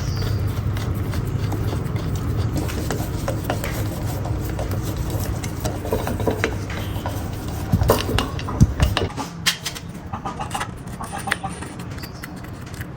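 Small metal parts clinking and clicking as they are handled, over a steady low rumble that cuts off about nine seconds in.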